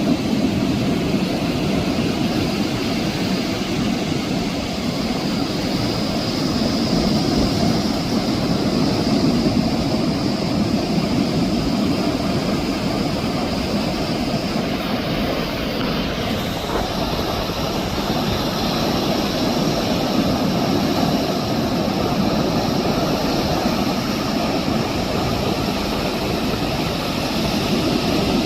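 Ocean surf breaking on a beach: a steady rushing wash of waves that swells and eases slightly in loudness.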